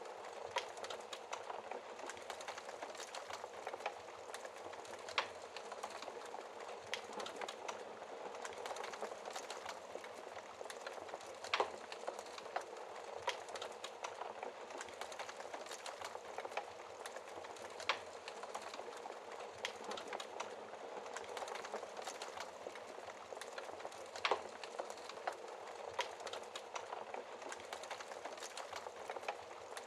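Wood fire crackling in a fireplace: a steady soft hiss of burning with irregular sharp crackles and occasional louder pops.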